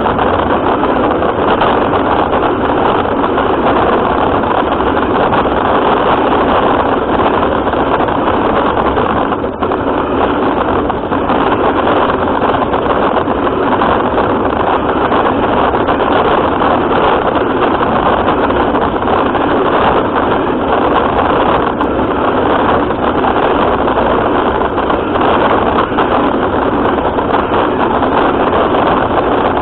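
Radio-controlled car running, its motor and drivetrain heard through a camera mounted on the car as a steady, dense noise with one brief dip about ten seconds in.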